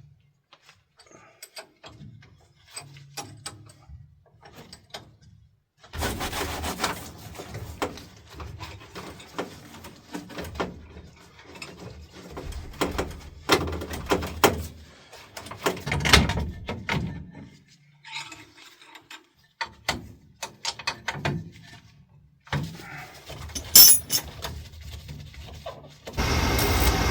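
Irregular clanks, clicks and rattles of hand tools on the metal parts of an oil furnace burner, after a few faint ticks at the start. Near the end a louder steady noise starts.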